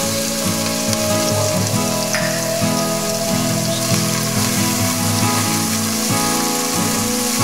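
Chopped ginger, garlic and green chilli sizzling in hot ghee and oil in a pressure cooker, a steady frying hiss, with acoustic guitar music underneath.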